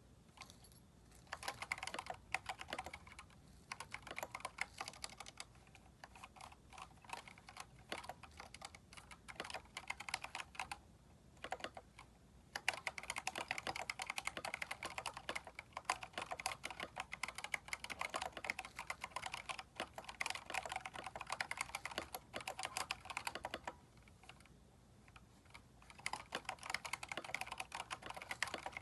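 Typing on a Keychron K4 mechanical keyboard fitted with replacement keycaps: rapid runs of key clacks, broken by two short pauses, one about eleven seconds in and another near the end.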